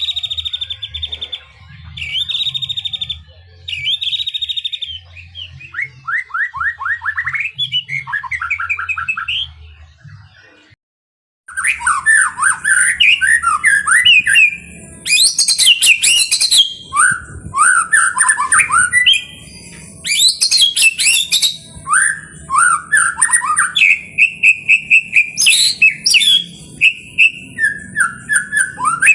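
White-rumped shama (murai batu) singing: buzzy trilled phrases, then rapid down-sliding series of notes. After a brief silence about a third of the way in, the song returns louder and denser, a varied run of whistles, chatters and sharp clicks.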